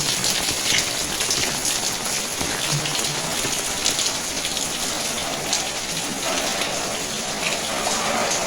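Steady rain falling, with many drops striking close surfaces in quick succession. A faint hum comes in about six seconds in.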